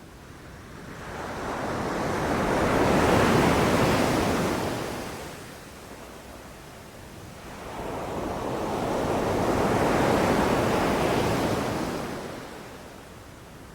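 Ocean waves washing onto a beach: two swells of surf noise, each building over a couple of seconds and then fading, about six seconds apart.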